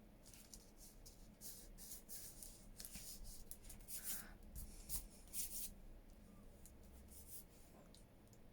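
Faint, uneven scratchy strokes of paper being rubbed and pressed down by hand onto a journal page, thinning out after about six seconds.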